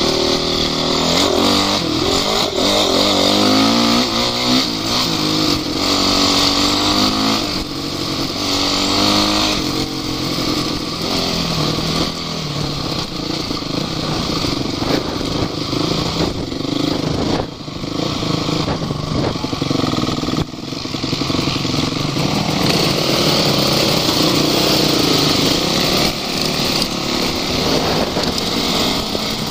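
Off-road vehicle's engine running under way, its pitch rising and falling over and over as it is revved and eased off, with a steady hiss over it.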